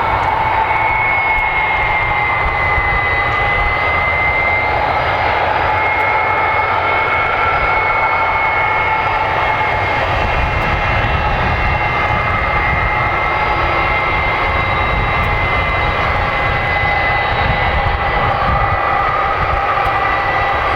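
Airbus A300 jet engines running with a steady high whine over a low rumble.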